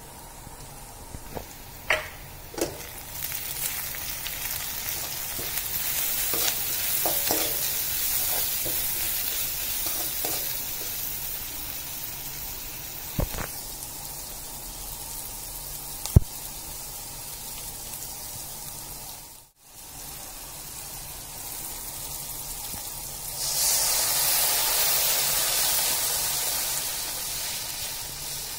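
Onions, green chillies and mustard seeds frying in oil in a metal kadai, sizzling, with a spatula knocking on the pan a few times as they are stirred. The sound drops out for a moment about two-thirds through, and near the end water is poured into the hot pan, giving a louder hiss.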